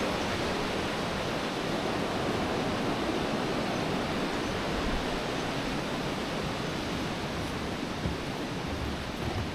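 Steady, even rush of flowing river water, as from rapids or a small fall.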